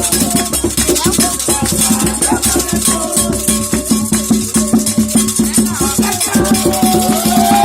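Candomblé ritual drumming: atabaque hand drums beaten in a fast, dense rhythm, with a shaken rattle over them.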